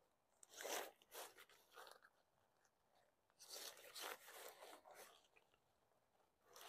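Faint rustling and rasping of nylon tent fabric being handled, in two spells of short scratchy bursts.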